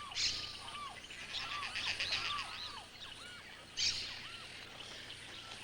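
Wetland ambience of birds calling: many short rising-and-falling whistled notes overlapping, with a few brief bursts of higher, harsher chatter.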